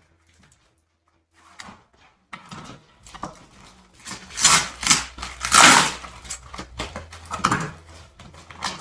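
Packaging being rustled and handled as parts are taken out, with irregular rustles loudest about halfway through and small knocks and clicks around them.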